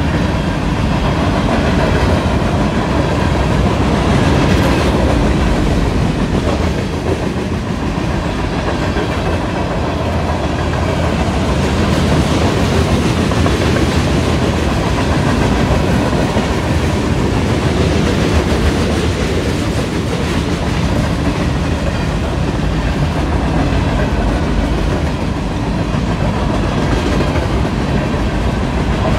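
A mixed freight train of covered hoppers, tank cars and boxcars rolling past at a steady pace, its steel wheels running continuously over the rails.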